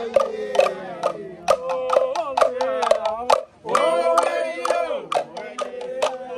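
Voices singing together, unaccompanied, with sharp claps or knocks sounding along with the song.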